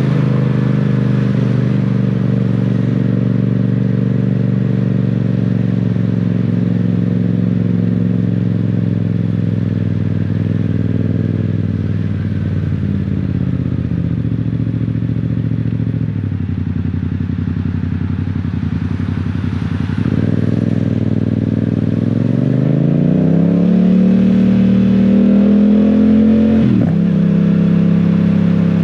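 Yamaha Tracer 700's 689 cc parallel-twin engine under way. It runs steadily, then falls in pitch as the throttle is rolled off and stays low for a few seconds. About two-thirds of the way through it rises in pitch under acceleration, with a quick break near the end that is typical of a gear change.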